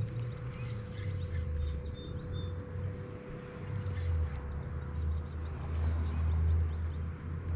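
Uneven low rumble of wind buffeting the microphone, with a faint steady hum underneath and a few faint high chirps.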